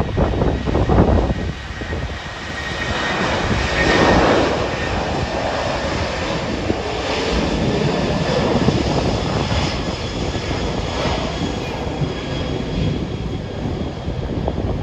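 Jet noise from an Airbus A380-841's four Rolls-Royce Trent 970 turbofans during takeoff: a loud, steady noise with faint whining tones and a swell about four seconds in.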